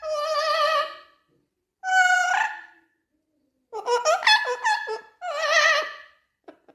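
A parrot singing in a wavering, opera-like voice with a strong vibrato, in four phrases separated by short pauses.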